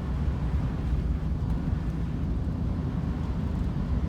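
Steady low rumble of a vehicle being driven, engine and road noise.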